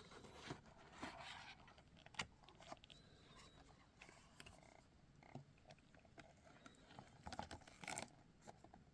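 Faint rustling and scattered small clicks of a diecast model car's box and plastic packaging being handled, with a louder cluster of clicks near the end.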